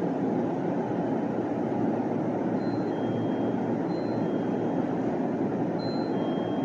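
An electric commuter train pulls out of the platform with a steady rumbling running noise. Faint, brief high-pitched tones come and go from about halfway through.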